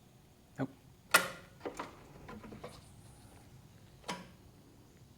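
A sharp click about a second in, then a few lighter clicks and taps and one more click near the end, with no starter cranking or engine running: the Yanmar 1500 tractor's starter is not turning the engine over.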